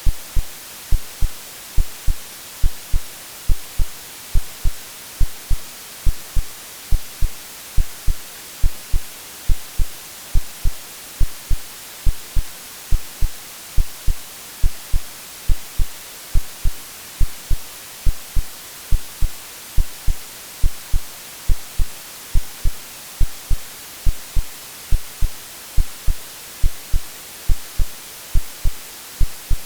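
AI-generated heartbeat sound, a low double thump about once a second, mixed over a steady white-noise hiss.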